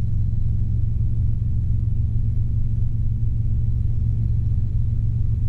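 Robinson R22 helicopter in cruise flight: its engine and rotors make a steady, loud low drone.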